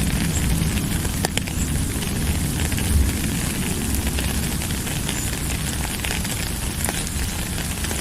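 Steady rain falling, with scattered sharp drop ticks over a deep, even rumble.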